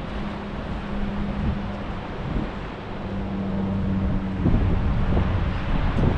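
Wind rushing over the microphone on an open beach, with surf beneath and a steady low hum that drops in and out; the wind gets louder and rumbles about four and a half seconds in.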